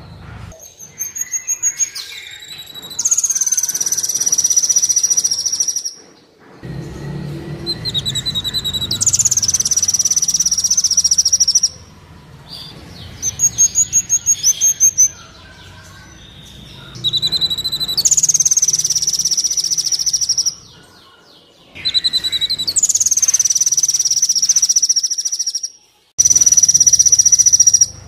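Kolibri wulung sunbird song played as a bird-training (masteran) recording: five loud phrases, each a quick run of stuttered high chirps leading into a long, steady, very high trill, separated by short pauses, over a low background hum.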